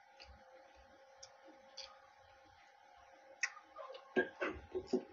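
Close-miked eating sounds of a man chewing samosa: sparse wet mouth clicks, then a burst of louder chewing and handling noises from about three and a half seconds in. A steady low hum runs underneath.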